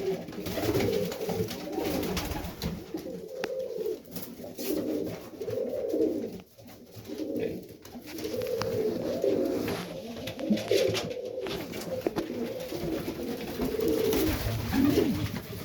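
Serbian Highflyer pigeons cooing over and over, several low rising-and-falling coos overlapping, with a few faint clicks among them.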